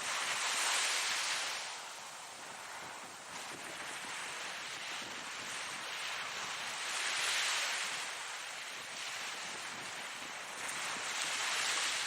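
Ocean waves washing in, a steady hiss that swells and eases three times over the stretch as each wave breaks and draws back.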